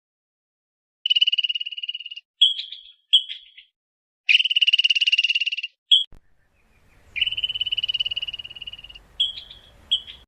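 High-pitched trilled animal calls: three long buzzy trills, each held one to two seconds, starting about a second in, with short chirps of the same pitch between them.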